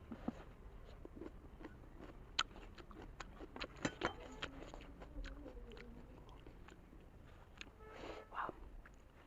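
Chewing a large steamed momo: soft wet mouth clicks and smacks scattered throughout, with a cluster of sharper ones about two to four seconds in.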